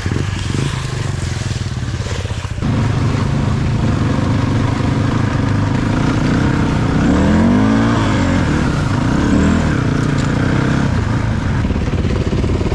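Off-road vehicle engine running under load. It gets louder about two and a half seconds in and revs up and down several times in the middle.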